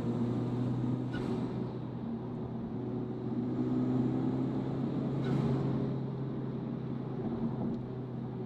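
Honda Civic Type R's turbocharged 2.0-litre four-cylinder engine and Mishimoto cold-air intake heard from inside the cabin, pulling steadily under load at around 50 mph. The drone swells louder about four seconds in.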